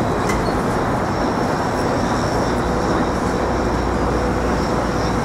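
Steady city traffic noise, an even rumble with a faint high whine over it.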